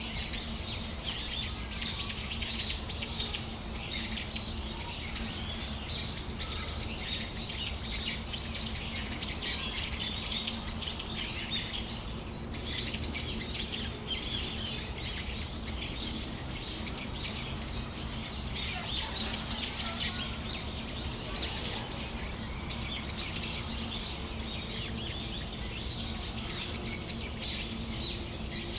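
Brown-eared bulbuls (hiyodori) calling, many short high calls overlapping without a break, over a steady low hum.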